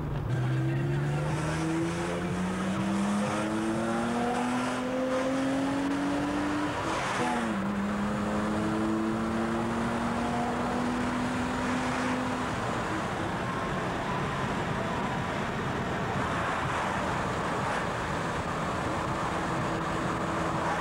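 VW Jetta's engine heard from inside the cabin, accelerating hard: its note rises steadily for about seven seconds, drops suddenly at an upshift, climbs again more slowly in the next gear, then eases off to steady cruising under road and tyre noise.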